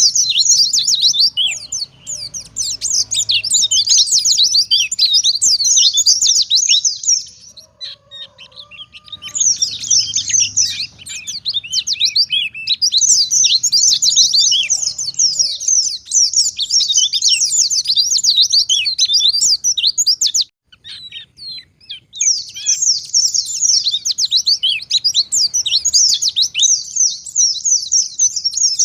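White-eye (pleci) singing a long, fast, high twittering song in three long bouts, broken by two short pauses about seven and twenty seconds in.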